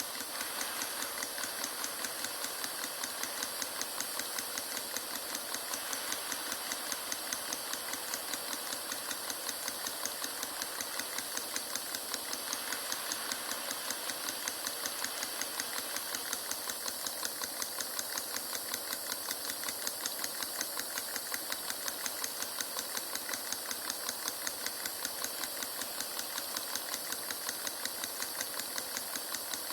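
Homemade miniature Stirling engine running steadily, its moving parts clicking in a fast, even rhythm.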